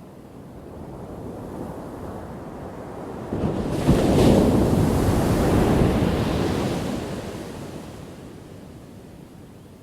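A single ocean wave breaking: the surf swells, crashes suddenly a little over three seconds in, then washes out and fades away slowly.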